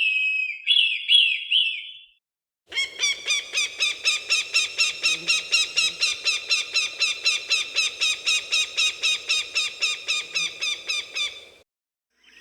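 Falcon calls. First come a few short screeching notes that slur downward. After a brief pause comes a long, rapid series of sharp repeated calls at about four to five a second, which ends abruptly near the close.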